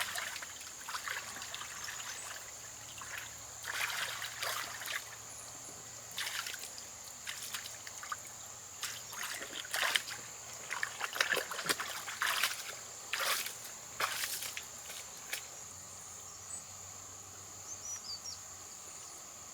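Water trickling and splashing in short irregular bursts, with a steady high-pitched tone behind it.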